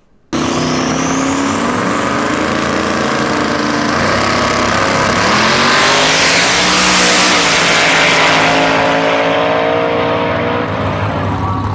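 Twin-turbocharged Ford Coyote 5.0 V8 in a Mustang running hard on a drag-strip pass. The sound cuts in abruptly at the start, the engine note climbs from about four seconds in, and it is loudest around seven seconds in before easing off a little.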